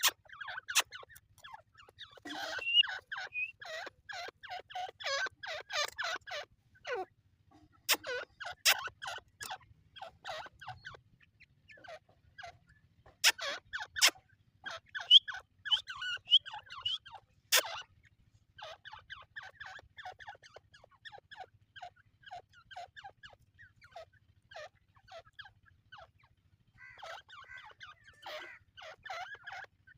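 Francolins (teetar) calling in bouts of rapid, repeated short notes, several birds overlapping, with a few sharp clicks among the calls.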